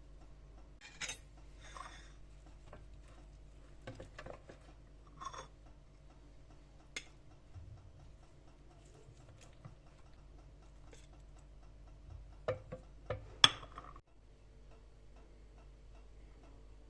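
Scattered clicks and clinks of kitchen utensils and dishes being handled, the loudest a sharp knock near the end, over a faint steady hum.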